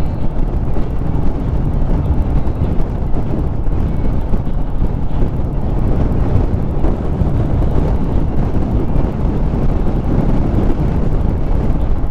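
Harley-Davidson Street Rod 750's V-twin engine running steadily on the move, with wind buffeting the microphone.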